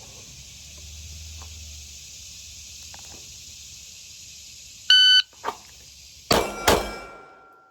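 Shot timer's start beep, then about 1.4 s later two quick shots from a Glock pistol drawn from the holster, about a third of a second apart, the second trailing off in a short ringing echo.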